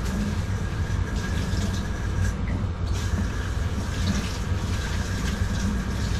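Water running steadily from an open faucet, over a steady low rumble.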